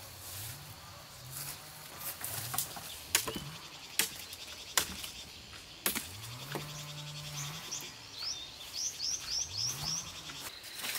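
Four sharp knocks, each a second or less apart, and then a small bird gives a quick run of five chirps.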